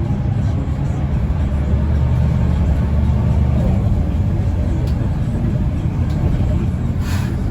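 Mercedes-Benz O405N2 city bus under way, heard from inside the passenger cabin: a steady low drone of engine and road noise that swells slightly a couple of seconds in. A short sharp knock comes near the end.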